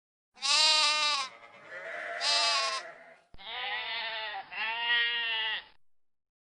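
A farm animal bleating: four wavering calls, two in one recording and two more in a second, duller-sounding recording cut in about three seconds in.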